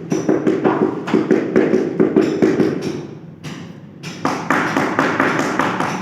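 Rapid, repeated tapping, about six taps a second, that fades out around three seconds in and starts again about a second later.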